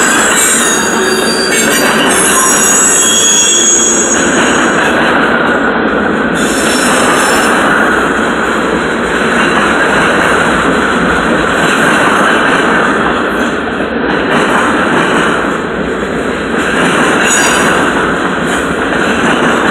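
Freight cars (boxcars and high-sided gondolas) rolling past close by: a loud, steady rumble and rattle of steel wheels on rail. High-pitched wheel squeal comes and goes over it, strongest in the first few seconds.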